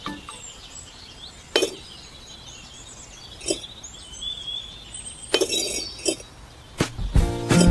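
A few sharp, separate clinks and taps, with faint bird chirps in the background; music starts near the end.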